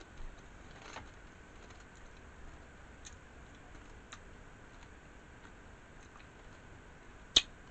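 Faint mouth sounds of a man chewing food, with a few soft clicks and one sharp click near the end.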